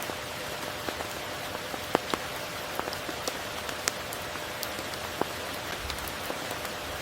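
Steady tropical rain: an even hiss with scattered sharp ticks of individual drops, irregularly spaced.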